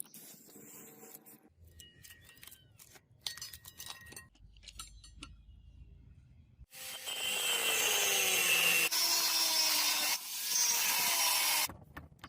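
Power tool grinding or cutting metal, running for about five seconds from about seven seconds in, with its pitch dropping under load and a brief break near the end. Light clicks and handling sounds come before it.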